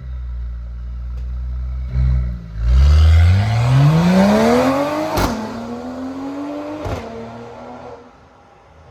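Exhaust of a Mercedes-AMG E53's turbocharged inline-six, with a full valved aftermarket exhaust and 200-cell downpipes. It runs steadily, then is revved hard with a rising note. Two sharp pops come as the revs fall back, and the sound fades near the end.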